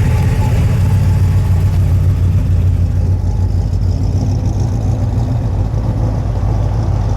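A car engine running with a deep, steady low rumble.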